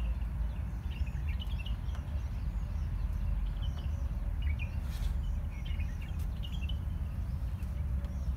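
Small birds chirping in short, repeated calls over a steady low rumble, with a single faint click about five seconds in.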